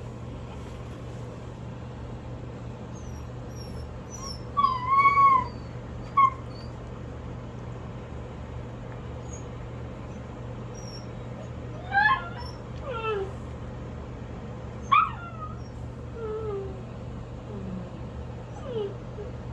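One-week-old miniature Bordoodle puppies whimpering and squeaking: a few short, high squeals, the loudest about five seconds in and others around twelve and fifteen seconds in, over a steady low hum.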